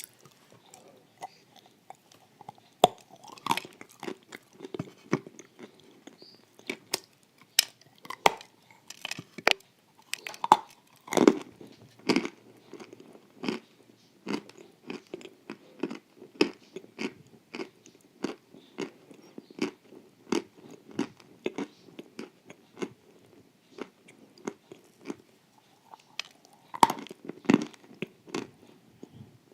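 Close-up chewing of crunchy wafers with cream: a steady run of crisp crunches, with a couple of louder bites about eleven seconds in and near the end.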